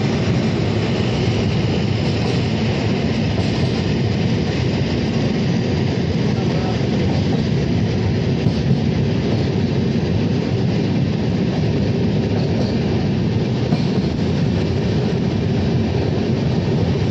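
Passenger train running steadily over a long bridge, heard from inside the coach: an even, unbroken noise of the wheels on the track.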